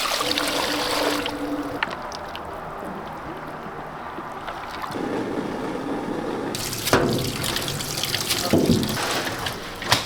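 Running water trickling and splashing, with a sharp knock about seven seconds in.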